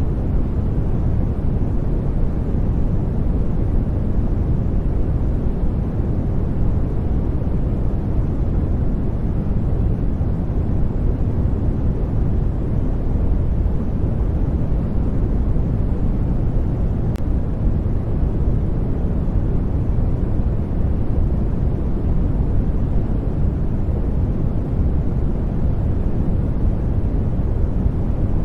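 Steady, unchanging sleep-aid noise track: an even, soft rushing hiss weighted toward the low end, deeper than true white noise.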